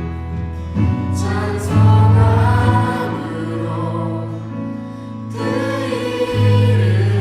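Church praise band and singers performing a worship song: sung voices over sustained low bass notes.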